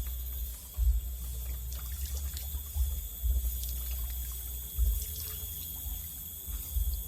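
Water trickling, over a steady high-pitched drone, with low rumbles and bumps on the microphone.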